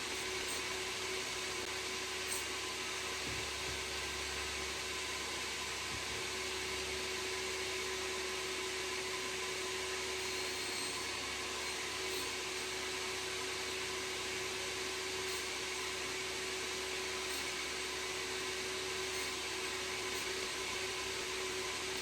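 A small electric motor tool running steadily and unbroken, with a constant hum under a wide hiss.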